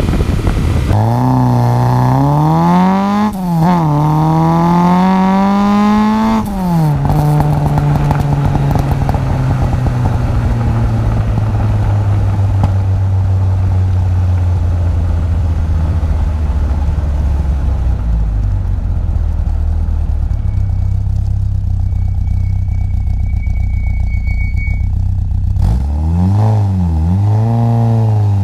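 Ford Escort RS2000's four-cylinder engine and exhaust under hard acceleration. The revs climb, dip at a gear change about three seconds in, climb again, then fall back at about six seconds. The engine then runs steadily at low revs while cruising, and near the end the revs rise and fall twice.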